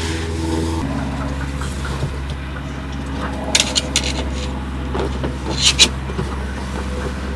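A small car's engine running steadily under way, its note stepping down about a second in, with a few short clicks and scrapes around the middle.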